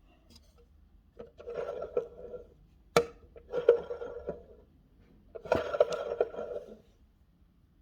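Vintage 1960s PIKO toy washing machine rattling in three short bursts, each of about a second, with a sharp click at the start of the second burst.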